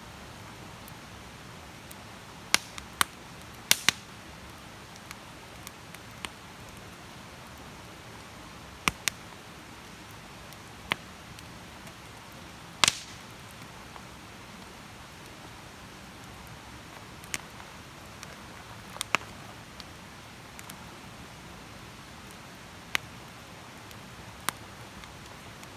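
Wood campfire crackling: sharp pops at irregular intervals, about a dozen of them, over a steady soft hiss.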